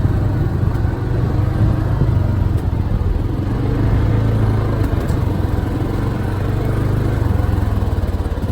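A motor vehicle's engine running steadily, with a strong low hum that turns to an even pulsing near the end.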